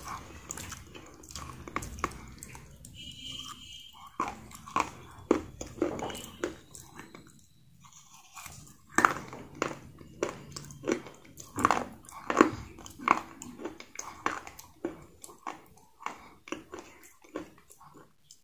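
A person biting and chewing crunchy food close to the microphone: sharp, irregular crunches and crackles, quieter for a moment midway and then coming thick and loud for several seconds.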